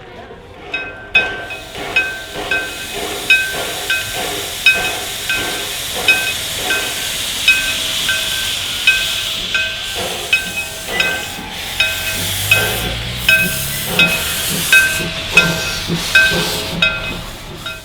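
Steam locomotive Sampson, a 1910 Vulcan Iron Works engine, hissing steam while its bell rings steadily, about one strike every two-thirds of a second. A low rising tone joins about twelve seconds in.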